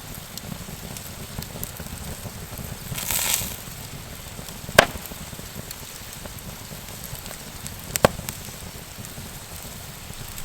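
Wood campfire embers crackling with a steady hiss, a brief louder hiss about three seconds in and two sharp pops, one near the middle and one later.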